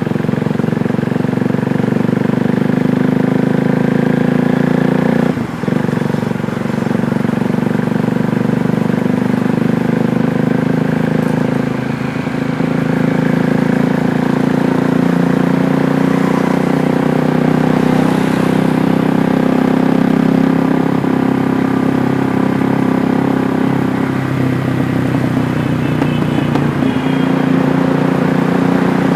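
KTM 390 Duke's single-cylinder four-stroke engine running steadily under way, with a brief dip in its note about five seconds in.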